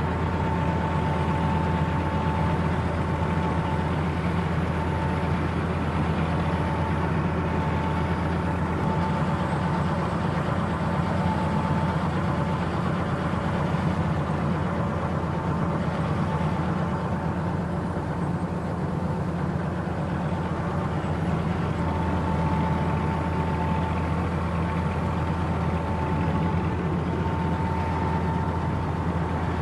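Tractor engine running steadily at an even speed, with a thin high whine above it that fades and returns.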